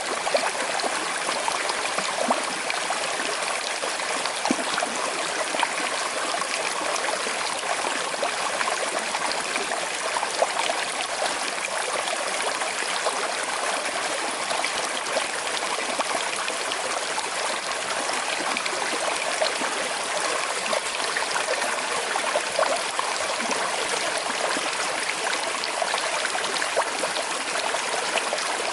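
Small river flowing with a slight current: a steady babble of water over stones, with little trickles and splashes in it.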